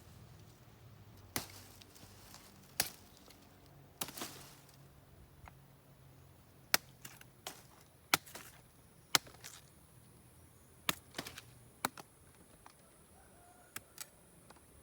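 Knife chopping, about a dozen sharp chops at uneven intervals with short pauses between them.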